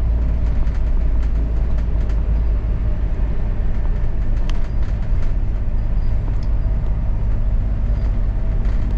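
Steady low rumble of a London double-decker bus in motion, heard from inside the bus, with a few small rattles and clicks.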